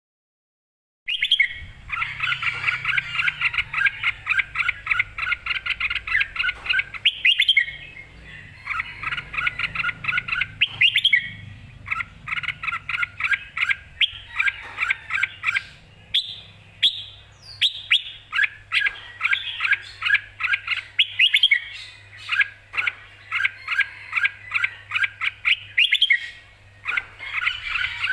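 Red-whiskered bulbul singing loudly in long runs of rapid chirping notes, separated by short breaks. The song starts about a second in.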